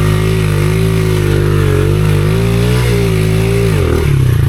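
Dirt bike engine revved hard and held at high revs, its pitch wavering slightly, then falling back toward idle near the end.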